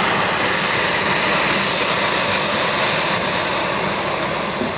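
Small gas turbine of a model jet running, a loud steady rush of jet noise with a thin high whine that slides down in pitch near the end.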